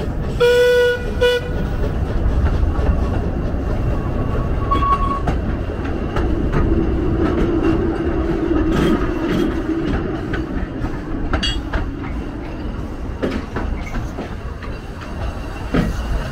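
A 2 ft narrow-gauge train runs with a steady rumble of wheels and running gear. About half a second in it gives two short toots, and a few metallic clanks follow later.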